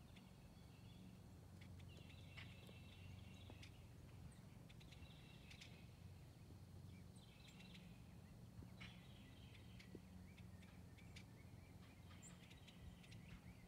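Near silence: faint outdoor ambience with distant birds chirping in short patches every second or two, over a low steady rumble.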